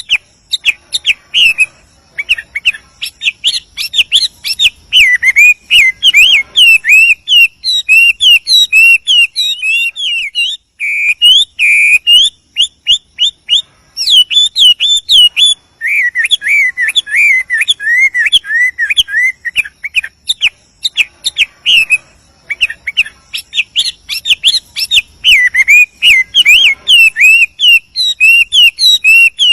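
Chinese hwamei (wambi) singing a long, continuous run of rapid, varied whistled notes that slide up and down in pitch, broken only by brief pauses.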